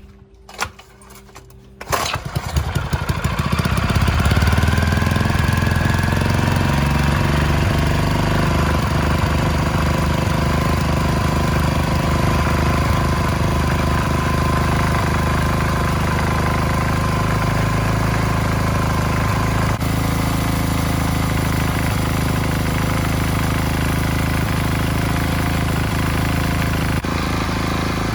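The restored agricultural machine's four-stroke petrol engine being started: after a brief burst, it catches about two seconds in with quick firing and settles into steady running.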